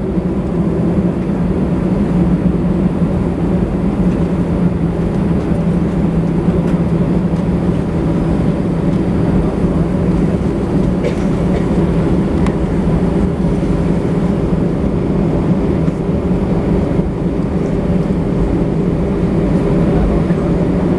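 Steady low drone inside an Airbus A320 cabin on the ground, with the engines running at low power over a low rumble.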